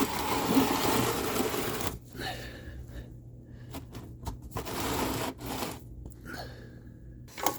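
Scraping and rustling of hands and a band-type oil filter wrench working at a car's oil filter during an oil change: one long noisy stretch at the start, then a few shorter bursts.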